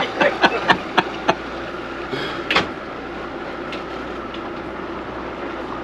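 Boat cabin hum of a Ranger Tug R-27 OB under way at slow speed: a steady engine drone with a few constant tones. It opens with a quick run of sharp clicks or knocks over the first second or so, and there is a short rushing burst about two and a half seconds in.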